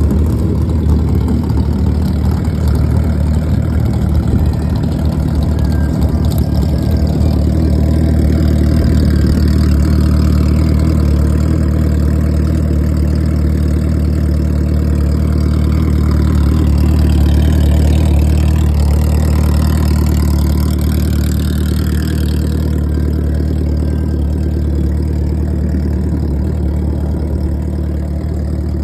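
Drag-built sportbike engine idling steadily, swelling slightly about two-thirds of the way through.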